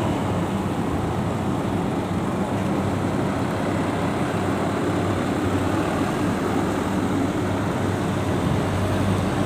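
Steady engine rumble with a low, even hum and no distinct events.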